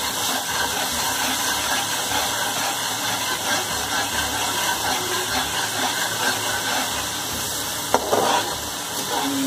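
Onions, tomatoes and ginger-garlic paste sizzling steadily in ghee in a metal karahi while a spatula stirs them, with one short knock of the spatula on the pan near the end.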